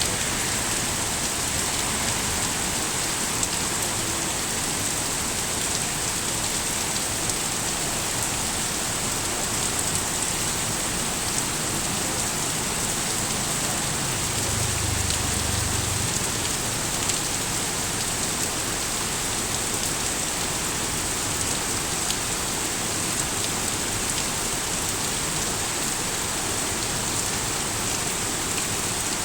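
Steady rain falling and pattering on surfaces, an even hiss with no let-up. A brief low rumble about halfway through.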